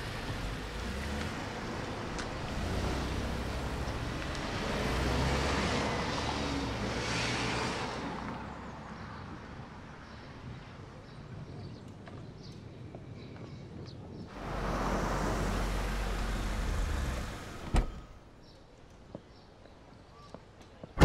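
Car running and driving off, its engine and road noise fading after about eight seconds. Later a louder rush of vehicle noise lasts about three seconds and ends with a sharp click.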